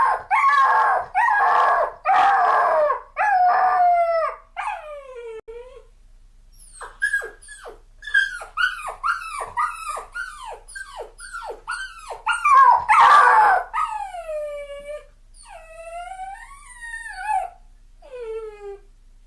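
A dog crying: a series of short, high whimpers and yelps, each sliding down in pitch. Several longer whines fall in pitch in the second half.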